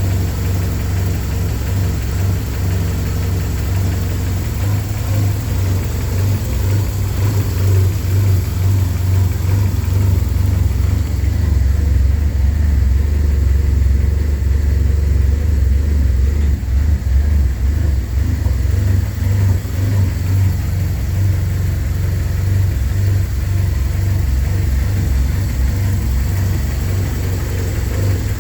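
Porsche 944 Turbo's turbocharged 2.5-litre four-cylinder engine idling steadily while it warms up after a cold start.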